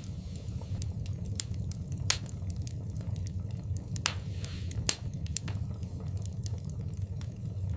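Wood fire in a fireplace crackling: irregular sharp pops and snaps over a steady low rumble, with a brief hiss about four seconds in.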